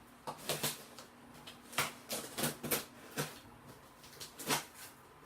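Shipping box being opened by hand: irregular crackles and scrapes of cardboard and packing being handled.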